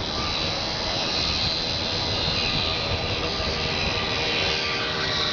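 Scratch-built micro airboat's small motor and air propeller running steadily, a high whine that holds its pitch.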